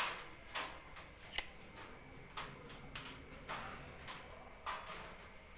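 Scattered light taps and clicks of a spoon against a mixing bowl while gram flour is spooned in, about five in all, the sharpest about a second and a half in.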